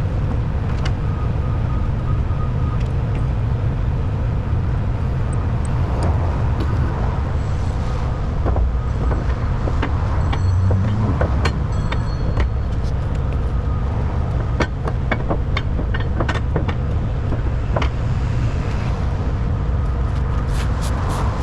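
Heavy truck's diesel engine running steadily, with scattered sharp knocks and clicks, most of them in the middle of the stretch.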